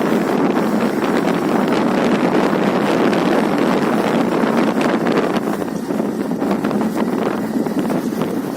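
Wind rushing over the microphone of a moving motorbike, a loud, steady rushing noise with the ride's road and engine noise buried in it.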